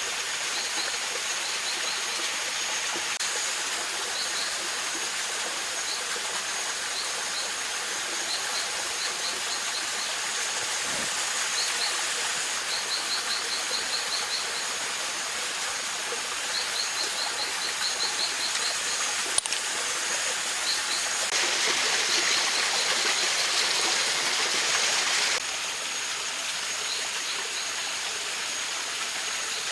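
Mountain stream flowing steadily, with runs of quick high chirps and a thin steady high-pitched tone above the water. A single sharp click comes about two-thirds of the way in. The water noise turns louder for about four seconds after that and then drops back abruptly.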